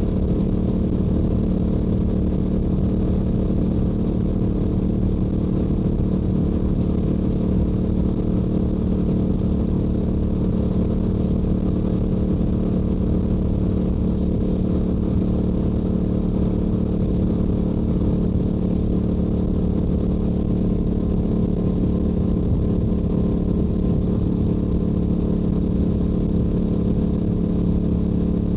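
Yamaha YZF-R7's parallel-twin engine through its stock exhaust, running at a steady highway cruise with no change in pitch, over a heavy low rumble of wind on the microphone.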